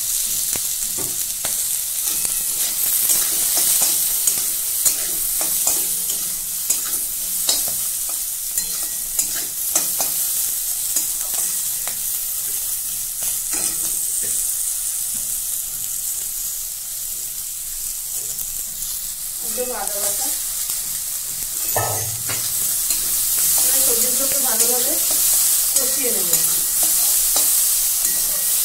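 Vegetables frying in mustard oil in a metal kadai, a steady sizzle, with a metal spatula scraping and tapping against the pan as they are stirred.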